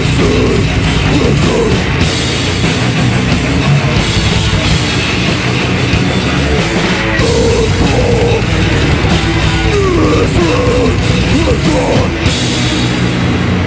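Live heavy metal band playing loud: distorted electric guitars, bass guitar and drum kit, with sliding guitar notes in the riff. The cymbal wash thins out near the end.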